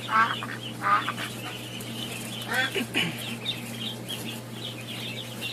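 Ducks quacking: two loud quacks near the start and a falling call about two and a half seconds in, over continual high peeping and a steady low hum.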